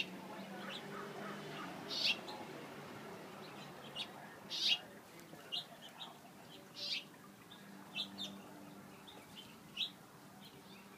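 Many small birds chirping: short, high chirps from several birds at irregular intervals, over a faint steady low hum.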